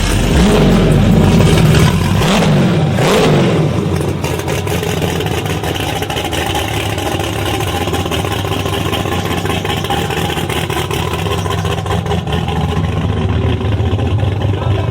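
Engine revved about three times in the first few seconds, then running steadily.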